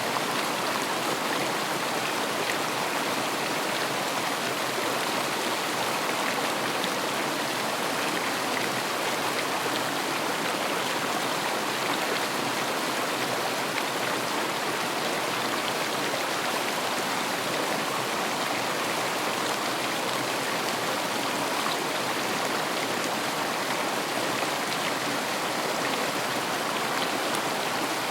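River water flowing and rushing in a steady, even wash.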